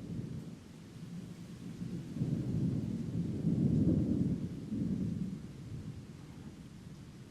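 Thunder rumbling: a low roll that builds about two seconds in, peaks near the middle and fades away.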